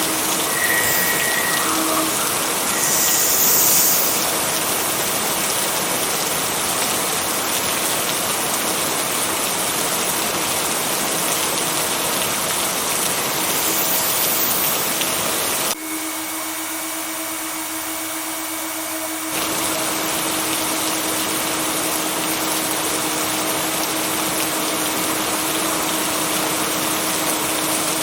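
Steady heavy rain, an even rushing hiss with a faint steady low tone underneath. About 16 seconds in the sound suddenly drops and thins for about three seconds, then comes back at full strength.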